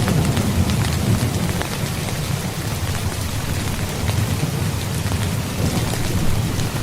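Rain falling steadily, with individual drops spattering, over a low rumble of thunder that is strongest at the start, eases after about two seconds and builds again near the end.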